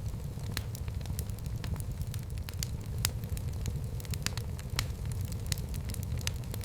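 Wood fire burning in a fireplace, with a steady low roar and frequent irregular sharp crackles and pops.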